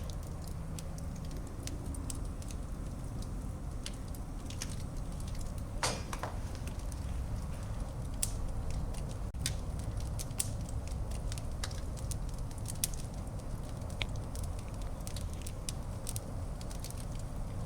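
Wood fire burning in a fireplace: a steady low rumble of the flames with scattered sharp crackles and pops, a few louder snaps about six seconds in.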